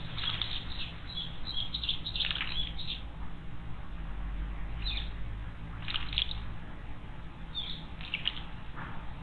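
Small wild birds giving short, high chirping calls in scattered clusters, over a steady low background.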